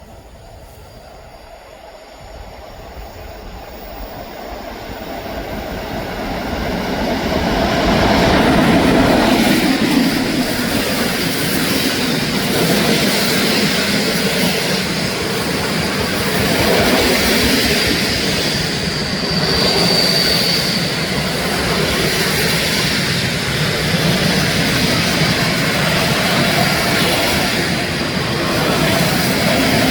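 Train approaching, growing steadily louder over the first several seconds, then passing close by with a steady rumble of wheels on the rails. A brief high wheel squeal comes about twenty seconds in.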